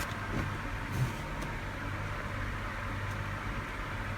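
A steady low mechanical hum, like a running motor or engine, with a small knock about a second in.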